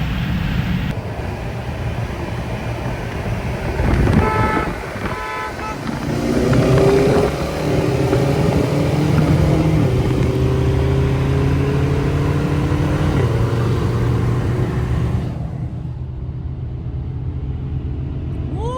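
Car engines and exhausts running as cars drive off, with a few short horn toots about four seconds in. Then a car accelerates, its engine note rising for several seconds.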